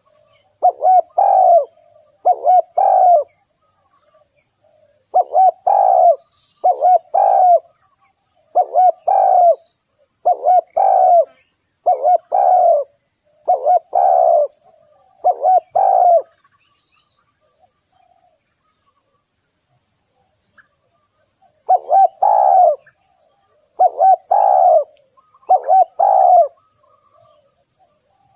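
Spotted dove cooing: short phrases of two or three hooting notes, about one every one and a half to two seconds. The cooing pauses for about five seconds past the middle, then three more phrases follow.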